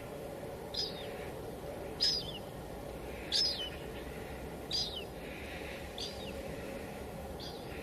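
Steady hiss of light drizzle, with a bird calling repeatedly over it: six short, high calls, each falling at the end, about one every second and a half.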